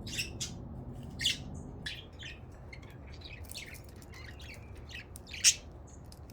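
Budgerigars chirping and squawking: short, sharp calls scattered through, the loudest about a second in and again near the end.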